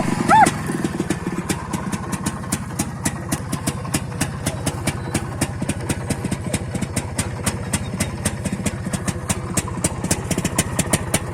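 Motorcycle engine idling: a steady low rumble with an even beat of sharp exhaust pulses, about five a second.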